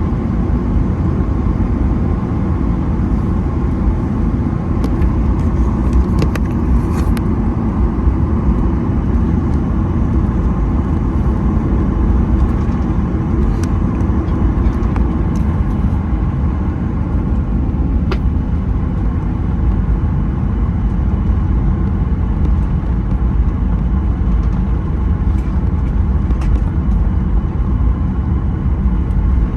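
Cabin noise of a Boeing 737-900ER taxiing after landing: a steady low rumble from the idling engines and the wheels rolling on the taxiway, with a few faint clicks and rattles.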